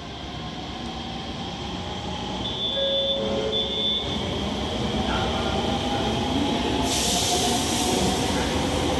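A train moving at the station platform, its rumble growing steadily louder, with a few short high squeals a few seconds in. About seven seconds in, a sudden steady hiss of escaping air sets in.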